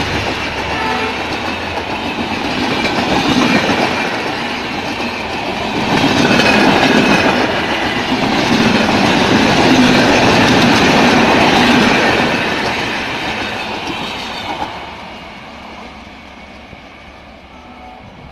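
Passenger train coaches passing close by at speed, their wheels clattering over the rail joints in a steady rhythm. The sound drops away sharply about fifteen seconds in.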